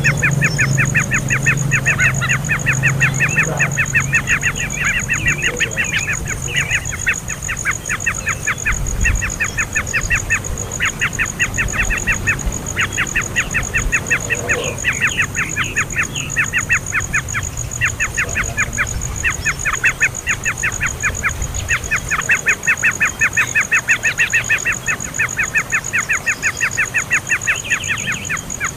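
Young bird giving a fast, steady string of short chirps, about eight a second, in bouts broken by brief pauses.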